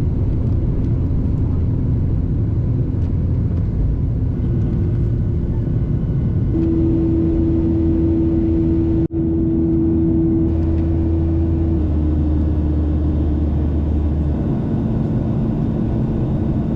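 A vehicle's steady low rumble, with a hum that steps to a new pitch several times. The sound drops out briefly about nine seconds in.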